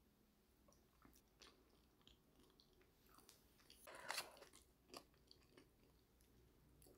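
Faint chewing of an oven-baked potato wedge: scattered soft crunches and small clicks, with the loudest crunch about four seconds in.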